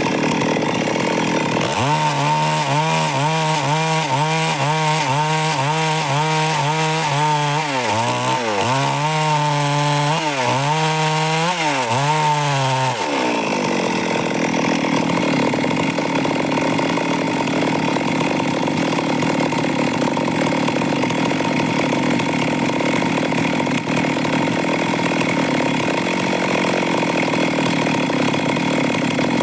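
Stihl MS 382 two-stroke chainsaw running at high throttle while cutting wood. Its engine pitch wobbles up and down rhythmically and dips deeper several times under load in the first half. Through the second half it gives a steadier, rougher sawing noise.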